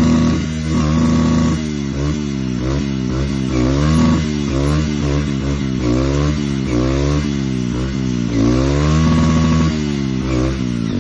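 Motorcycle engine running hard and being revved up and down over and over, its pitch dropping and climbing again about once a second after a steadier first second or two.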